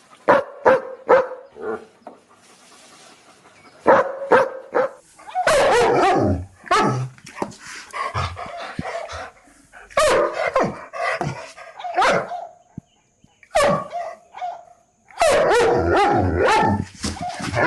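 Dogs barking aggressively: a few single sharp barks at first, then longer runs of rapid barking broken by short pauses.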